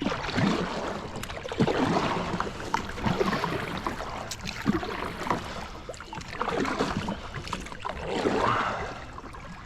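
A kayak being launched from the river bank: water sloshing and splashing around the hull, with irregular knocks and scrapes against the boat and several swishing surges.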